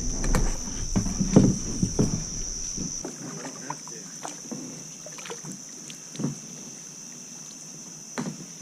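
Kayak being paddled: paddle knocks and thumps against the hull, loudest in the first few seconds, then sparser and quieter. Over it runs a steady high-pitched chorus of crickets.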